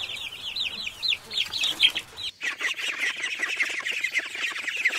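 Domestic chicks peeping, many short high cheeps that drop in pitch and overlap each other. The flock changes about two seconds in, and after that the peeping is denser.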